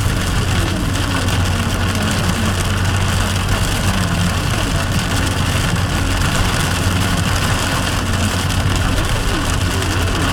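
Steady low hum of a car driving through heavy rain, under a constant hiss of rain and tyres on a wet road.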